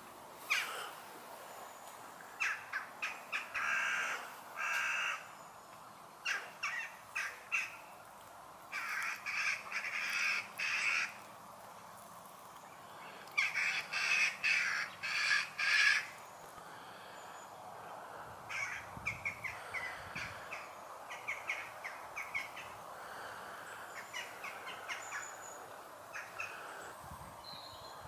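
Birds calling: bouts of short, harsh, caw-like calls in quick series, the loudest in the first half, with fainter calls later on.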